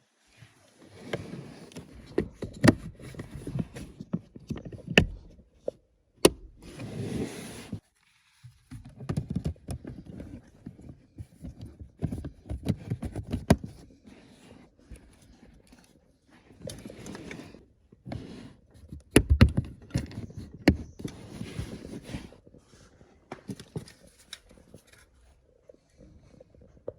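Hands working on a car's cabin air filter housing and glovebox: irregular clicks, knocks and rustling of plastic parts, with a few sharp snaps.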